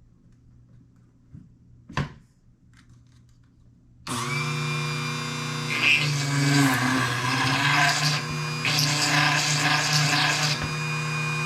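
A sharp click about two seconds in, then a small electric drill starts about four seconds in and runs at a steady pitch, with rougher stretches as the bit cuts, enlarging the bore of an acrylic stopper bead.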